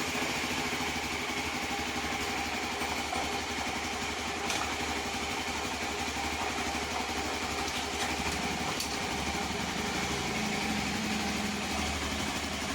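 Hero XPulse 200 single-cylinder motorcycle engine idling steadily, just after its clutch-side bearing was replaced. A couple of faint clicks sound partway through.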